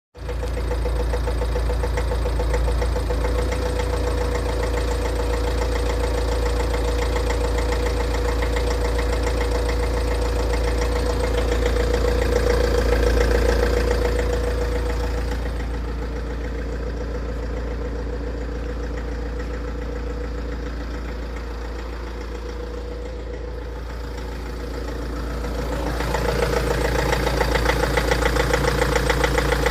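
Tata Safari Dicor's common-rail diesel engine idling with a rapid, steady knock, which the owner mostly puts down to a faulty glow plug. The sound drops and thins about halfway through, then comes back louder near the end.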